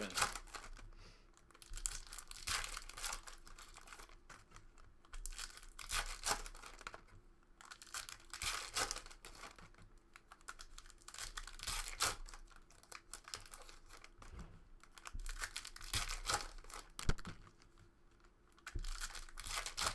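Trading-card pack wrappers being torn open and crinkled, in irregular bursts of tearing and rustling.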